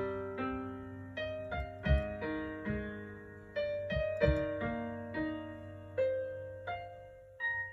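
A simple, gentle melody played on a piano, struck single notes over a few low chord tones, each note ringing and fading away. The last note is struck just before the end and left to ring.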